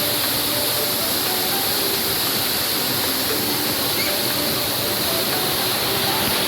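Waterfall: a steady, loud rush of falling water that cuts off suddenly at the very end.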